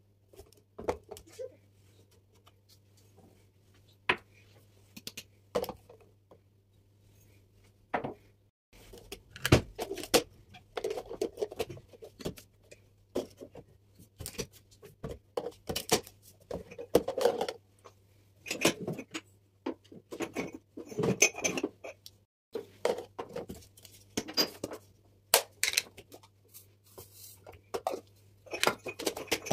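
Household items being handled and set down in a cupboard: a string of irregular clicks, knocks and light clinks of containers and jars, busier from about a third of the way in, over a faint steady low hum.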